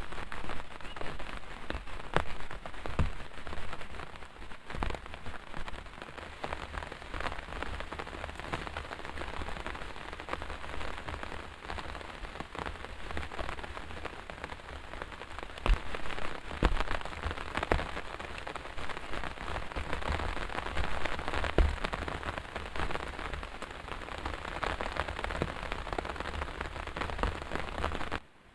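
Heavy rain falling steadily, with many individual drops striking a nearby surface. It cuts off abruptly near the end.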